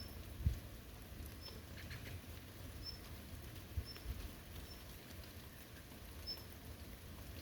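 Light rain pattering and dripping, with a low thump about half a second in. A short, high chirp from an unseen animal repeats roughly once a second throughout.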